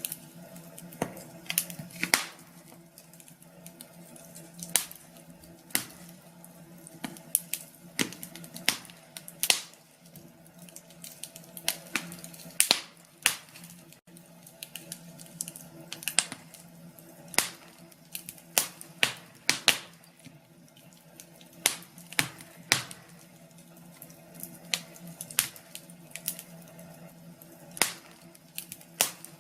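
Wood fire crackling in a fireplace: irregular sharp pops and snaps, some much louder than others, over a faint low steady hum.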